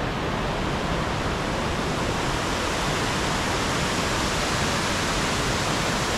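Waterfall: water falling and splashing, a steady full-range rush with no breaks.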